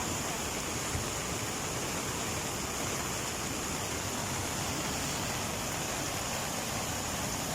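A swollen river in flood, its water rushing steadily.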